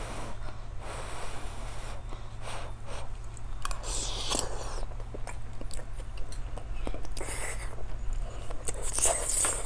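Close-miked chewing of a mouthful of rice and fish: soft, wet mouth sounds with small clicks, coming unevenly throughout.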